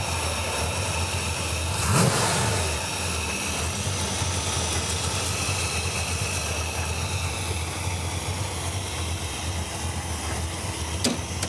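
Small-block Chevy 350 V8 (GM Performance Parts short block with an Edelbrock carburetor) idling steadily in a Porsche 914 conversion, with a brief rev about two seconds in. A sharp click near the end.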